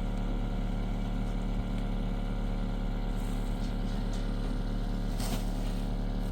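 A motor running steadily with an even low hum, and a short sharp click about five seconds in.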